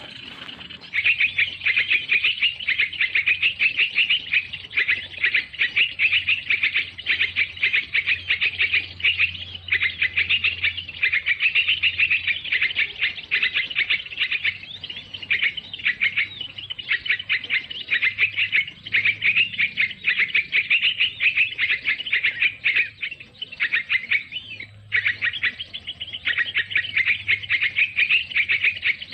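Small birds chirping rapidly and continuously in high, dense trills. The calls start abruptly about a second in and break off briefly near the end.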